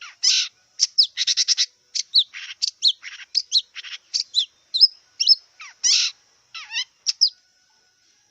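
Long-tailed shrike singing a rapid, varied jumble of short sweeping whistled chirps mixed with harsh, scratchy notes, stopping about seven seconds in.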